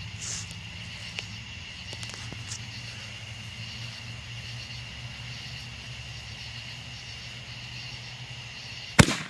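Steady night ambience of insects chirping in one thin high tone over a low hum, then a single sharp firework bang near the end.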